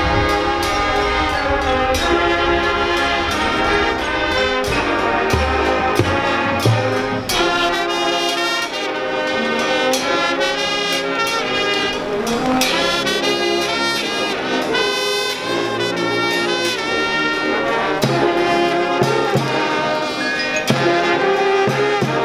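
High school marching band playing on the field: loud, continuous brass (trumpets, trombones and low brass) over steady drumline hits.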